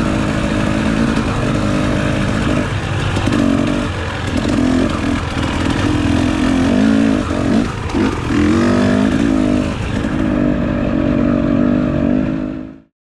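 Dirt bike engine running under load on a trail ride, its pitch rising and dropping repeatedly as the throttle is worked, then fading out sharply near the end.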